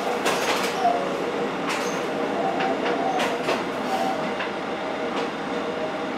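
Isumi Railway diesel railcar running along the line, heard from inside the cab: a steady running noise, with irregular sharp clicks and knocks as the wheels pass over the track.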